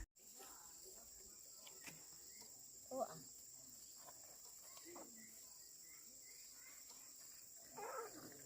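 Faint, steady, high-pitched chirring of crickets and other insects, with two brief, faint calls about three seconds in and near the end.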